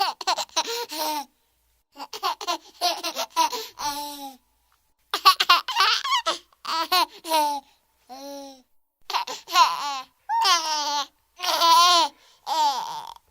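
A baby laughing and babbling in short high-pitched bursts with sharp silent gaps between them.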